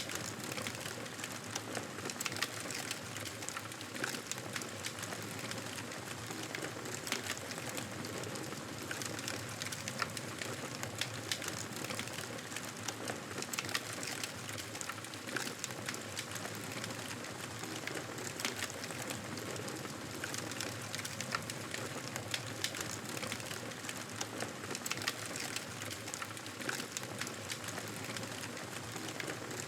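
Wood fire crackling steadily, a constant hiss full of small irregular pops and snaps.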